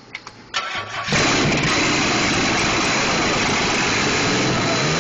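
Carbureted car engine cranks briefly, catches about a second in, then runs loud and steady.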